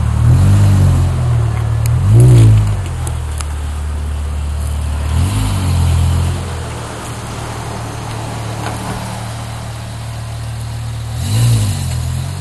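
BMW M5 with an aftermarket Supersprint exhaust idling and revved briefly four times, each rev rising and falling back to idle; the second rev is the loudest.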